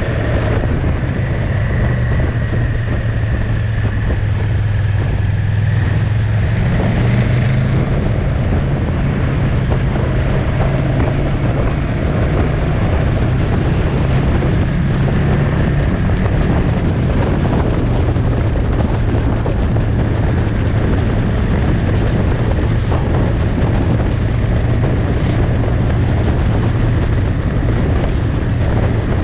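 Motorcycle engine running under way, a steady low engine note. The pitch steps up about seven seconds in, then settles back around sixteen seconds in. Wind noise on the microphone runs over it.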